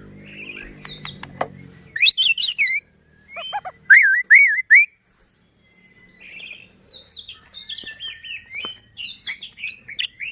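White-rumped shama (murai batu) singing. About two seconds in comes a quick run of high sweeping notes, then four loud looping whistles, a short pause, and a fast string of varied chirps and whistles.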